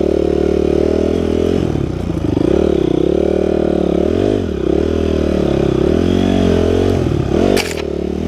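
Beta 350 RR Enduro dirt bike's single-cylinder four-stroke engine revving up and down over and over as the bike is worked along while stuck on the trail, with a sharp knock near the end.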